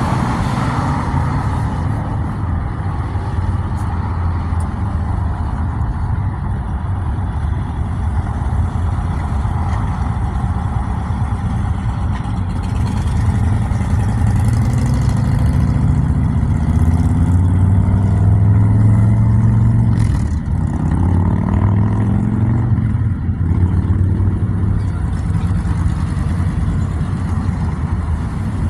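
Motorcycle engine running, growing louder and rising a little in revs through the middle, with a brief drop about twenty seconds in.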